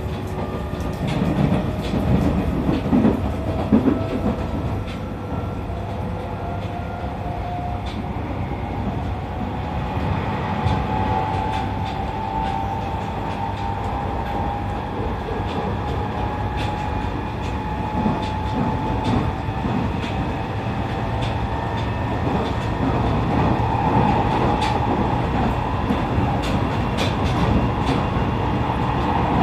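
E501 series electric train running, heard from inside the car. The traction motors' whine rises steadily in pitch over the first ten seconds or so as the train accelerates, then holds. Under it are a steady rumble and the click of wheels over rail joints.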